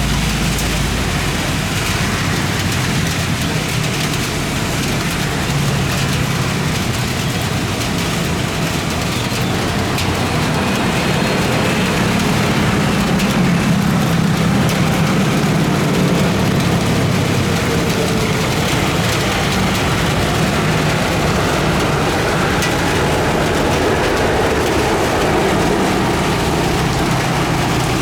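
Heavy rain falling steadily, with a low rumble that swells through the middle.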